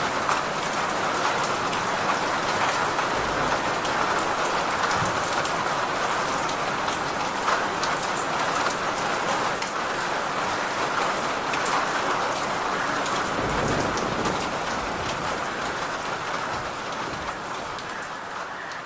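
Steady heavy rain falling on a surface, with many individual drops pattering through it and a couple of brief low rumbles. The rain eases off in loudness near the end.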